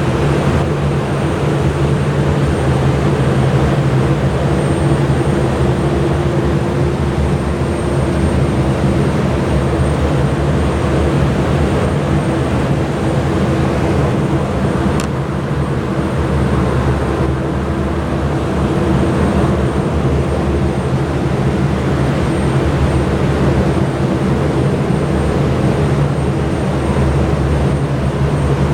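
Aircraft engines running steadily: a constant, loud hum with fixed low tones that does not change.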